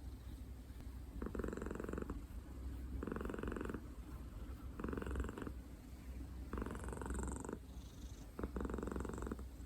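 Tabby-and-white senior cat purring, the purr swelling about every one and a half to two seconds with each breath, five times in all.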